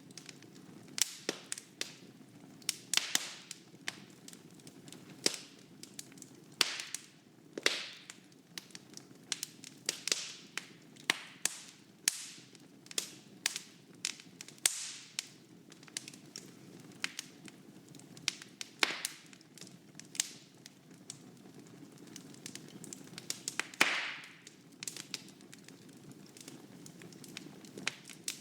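Wood fire burning in a fireplace: a soft steady rush of flame with irregular crackles and sharp pops from the burning logs, some in quick clusters and a few louder snaps.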